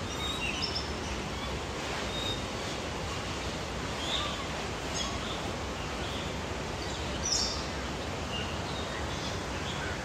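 Birds giving short, high chirps here and there, about one a second, over a steady background hiss.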